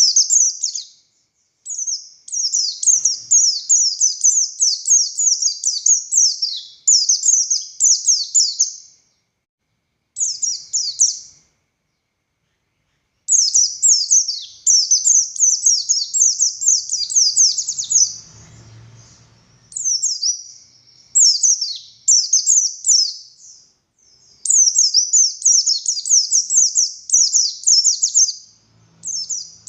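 A white-eye (pleci buxtoni) singing energetically: long, fast phrases of high, down-slurred notes, broken by a couple of short pauses.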